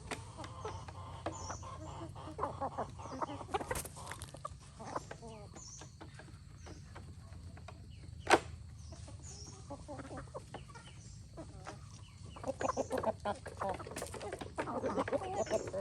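Free-range chickens clucking, busiest near the end, with a single sharp click about eight seconds in. A faint high chirp repeats about once a second in the background.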